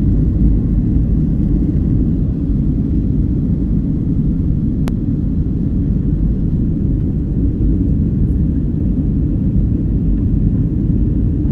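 Steady low rumble of an airliner's engines and airflow heard inside the passenger cabin in flight, with a single sharp click near the middle.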